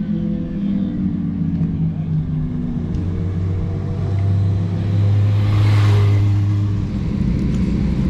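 Motorcycle engine running, with a steady hum that holds from about three seconds in and a rush of noise that swells and fades around six seconds in.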